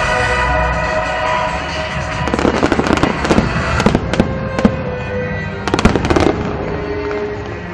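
Aerial fireworks bursting and crackling over background music, with a dense run of sharp pops from about two seconds in until about six seconds in.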